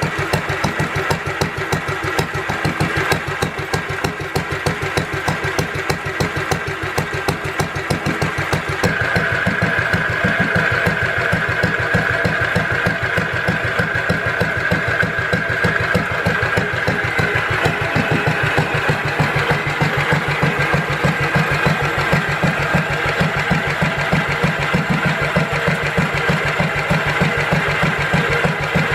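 Lister D 2 HP single-cylinder stationary engine running steadily, with an even, rapid firing beat. It becomes a little louder from about nine seconds in.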